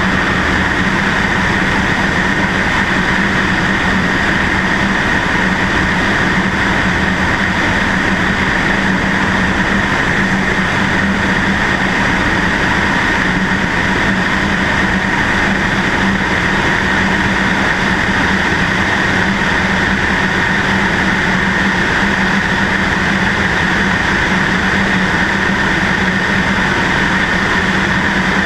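Cessna 152's four-cylinder Lycoming engine and propeller running at a steady speed, heard from the left wing with a constant rush of air. The hum and hiss hold level with no change in engine speed.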